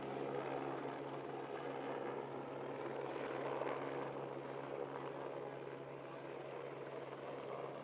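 Steady engine drone holding one low pitch, with an even outdoor haze behind it.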